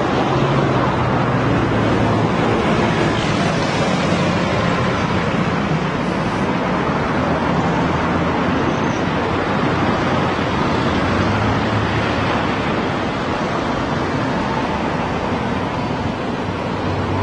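Steady road traffic noise: a continuous wash of passing cars and motorbikes, with engine hum rising and falling as vehicles go by.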